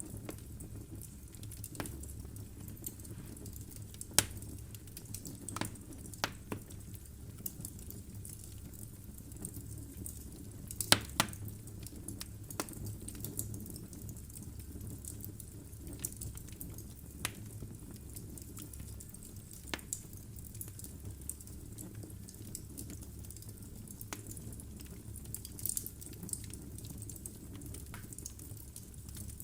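Wood fire crackling in a fireplace: irregular sharp pops and snaps over a low steady rumble. The loudest pops come about four seconds in and as a quick cluster of two or three around eleven seconds.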